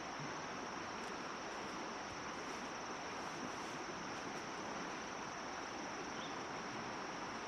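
A steady, high-pitched insect drone over an even outdoor hiss, with no change in level.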